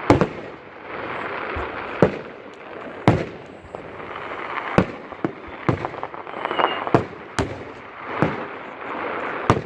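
Fireworks display: about a dozen sharp bangs at irregular intervals over a continuous crackling hiss.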